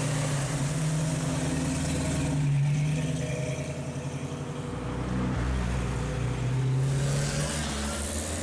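Classic Ford car engine running at fairly steady, low revs as the car drives off, a little louder about two and a half seconds in.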